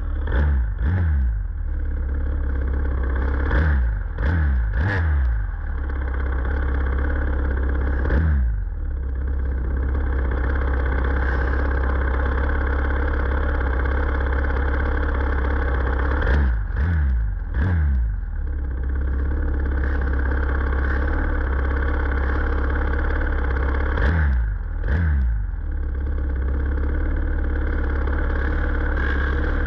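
Several dirt-track race motorcycle engines idling together, with short throttle blips that rise and fall in pitch. The blips come in clusters about a second in, around four to five seconds, near eight seconds, near seventeen seconds and near twenty-five seconds.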